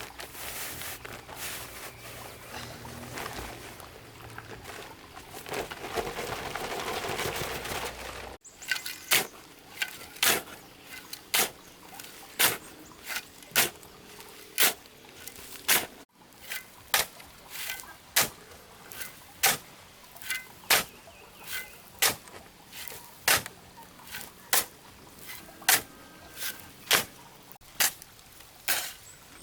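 A hand tool striking repeatedly, a sharp blow about every second and a bit, evenly paced like digging or chopping work. For the first eight seconds or so there is only a steady noisy rustle before the blows begin.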